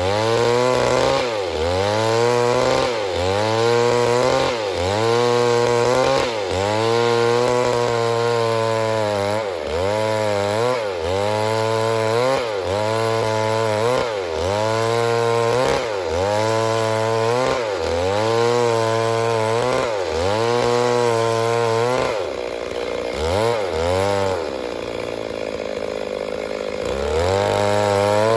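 Stihl MS 382 two-stroke chainsaw cutting wood. Its engine pitch dips under load and recovers about once a second, over and over. Near the end it eases off for a few seconds, then comes back up to speed.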